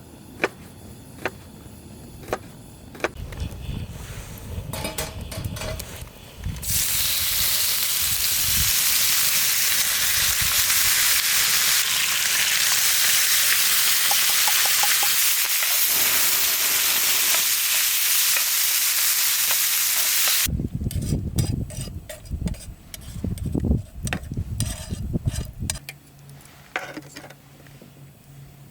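Vegetables stir-frying in a hot pan over a campfire: a loud, even sizzle that starts suddenly about seven seconds in and cuts off sharply about fourteen seconds later. Clicks and knocks come before and after it.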